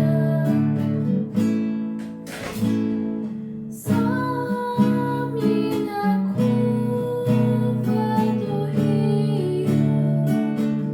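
Song accompaniment on a strummed acoustic guitar, chords struck again and again in a steady rhythm.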